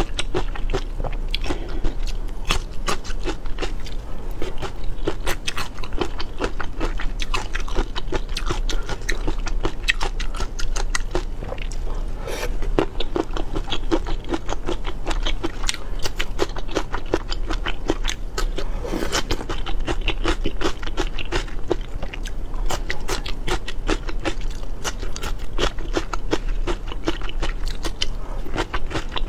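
Close-miked chewing and biting of seafood, a dense, irregular stream of crunchy clicks.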